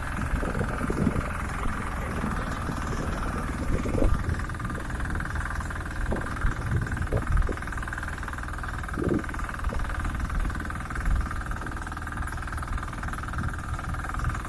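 Walk-behind tractor engine running steadily under load while pulling a harrow over ploughed ground, with irregular knocks and rattles as the machine bounces over the clods.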